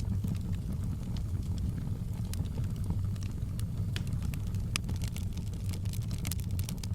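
Wood fire burning in a fireplace: a steady low rumble of the flames with sharp, irregular crackles and pops of burning logs.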